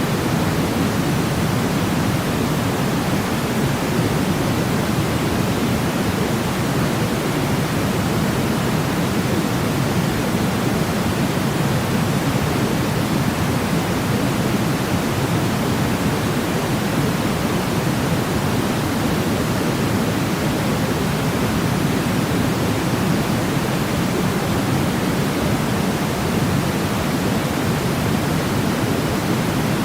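Steady sleep-aid noise: an even, unbroken hiss, heavier in the low range like pink noise, with no change.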